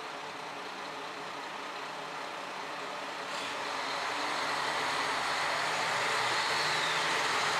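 Diesel train running, its noise swelling gradually from about three seconds in.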